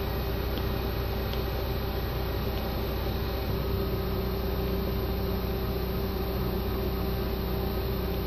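CNC lathe running under its program: a steady machine hum with a constant whine, and a few faint ticks in the first few seconds.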